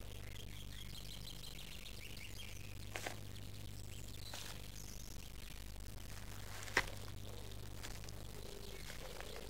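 Faint birdsong over a steady low hum, with two small clicks, one about three seconds in and one near seven seconds.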